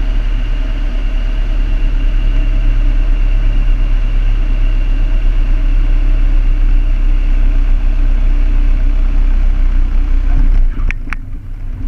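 Piper Cherokee's single piston engine and propeller droning steadily, heard inside the cabin. Near the end the drone dips briefly and two sharp clicks sound.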